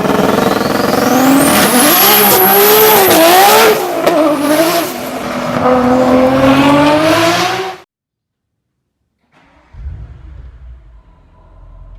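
Audi S6's twin-turbo V8 revving through a Motor Heroin sport exhaust (Soft stage), loud, its pitch rising and falling several times for about eight seconds before cutting off sharply. After a brief silence a much quieter low rumble starts near the end.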